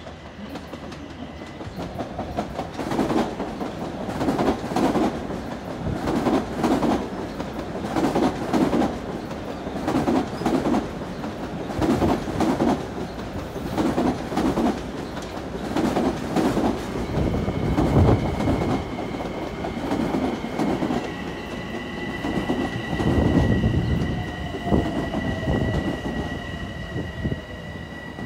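Long Island Rail Road electric multiple-unit commuter train passing through the station, its wheels clacking over the rail joints in a rhythm of roughly one clack every one and a half to two seconds as the cars go by. A steady high whine sets in past the middle, and a falling tone follows near the end as the train draws away.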